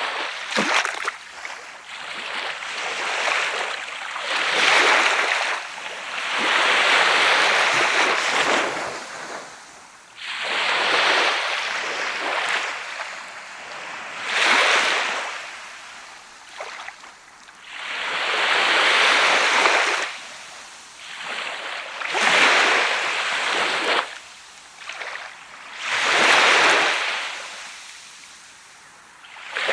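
Sea waves breaking and washing up a sand beach, one after another every three to four seconds, each rising to a hiss and fading away.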